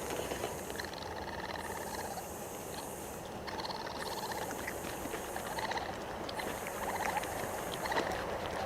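Raccoon calling: several short trilling calls made of rapid pulses, over a steady background hiss, with a few small clicks.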